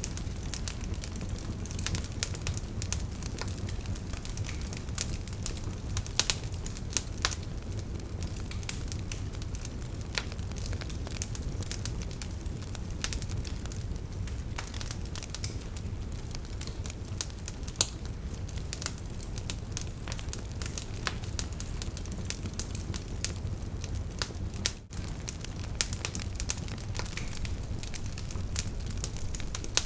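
Wood campfire crackling and popping: many sharp, irregular pops and snaps over a steady low rumble.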